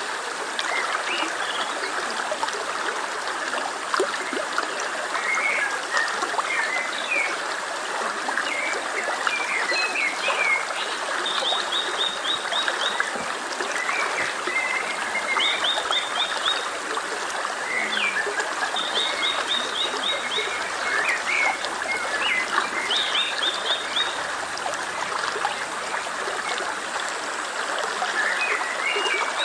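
A stream babbling steadily, with small birds chirping here and there. Through the middle, a short, rapid series of high notes is heard four times.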